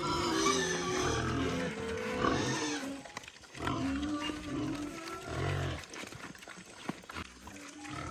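Pigs squealing and grunting in two long bouts, the second ending about six seconds in, followed by quieter scattered sounds.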